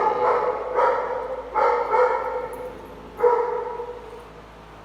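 A dog barking: four loud barks, the last about three seconds in, each tailing off briefly.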